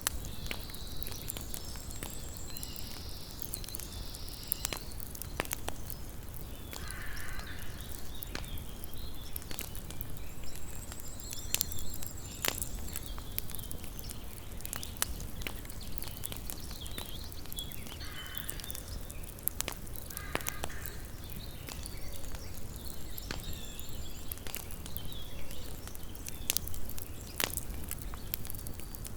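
Wood campfire crackling, with frequent sharp irregular pops over a steady low hiss.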